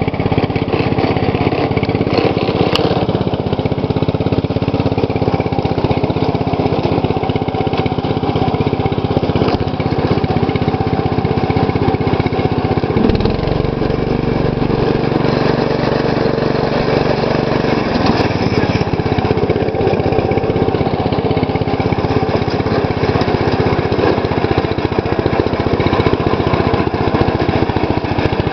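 MTD lawn tractor's engine running steadily under way. Its low hum changes for about five seconds in the middle, then returns to the earlier sound.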